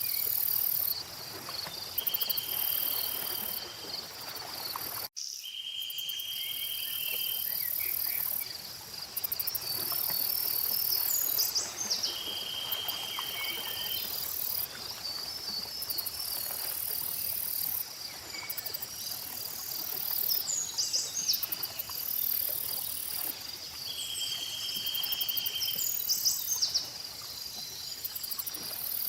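Layered insect chorus dominated by crickets: a steady high chirring, with an even higher buzz that switches on and off every second or two, and a trill that repeats every few seconds. Scattered bird chirps sound over it, and the whole bed cuts out for an instant about five seconds in.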